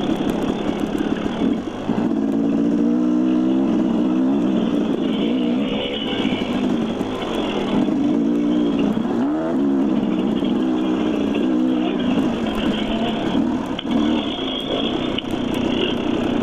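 Dirt bike engine running on a trail, its pitch rising and falling again and again as the throttle is opened and eased.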